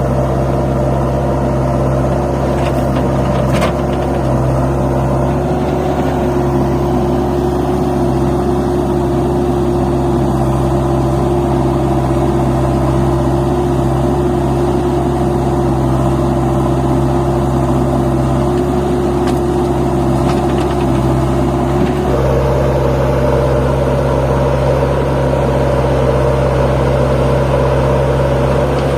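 Force Sanman 6000 tractor's three-cylinder diesel engine running steadily under the load of a fully loaded trolley. About three quarters of the way through its tone steps up and grows a little louder.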